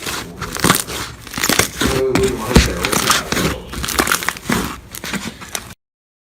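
Crunchy slime squeezed and pressed by hand, a dense run of crackles and pops. It cuts off suddenly near the end.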